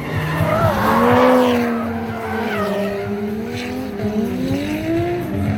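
Drift car engine revving through a slide, its pitch rising and falling, with tyres skidding and squealing. Loudest about a second in.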